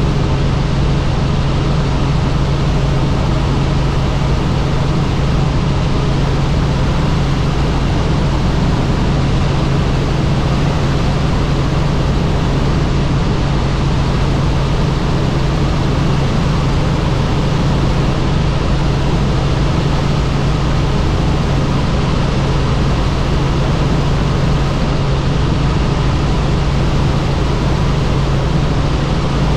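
Helicopter in flight: loud, steady rotor and engine noise with a constant low drone.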